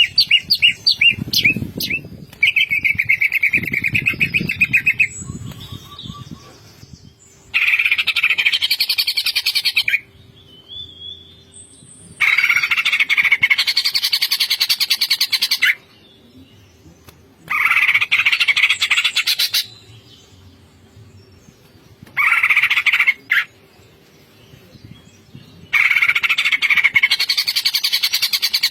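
Cucak ijo (greater green leafbird) singing in loud bursts of rapid, chattering trills, each one to three and a half seconds long and a few seconds apart. The first bursts are preceded by a run of separate sweeping notes. A few low thumps occur in the first few seconds.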